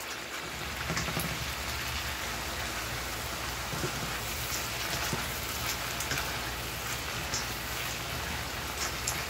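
Ground turkey, onion and bell peppers sizzling steadily in a hot frying pan as they are stirred with wooden spatulas, with a few light taps of wood on the pan.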